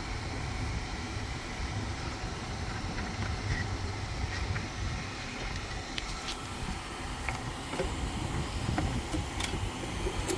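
Steady low background rumble with a hum, and a few faint light clicks in the second half from handling small parts and wiring.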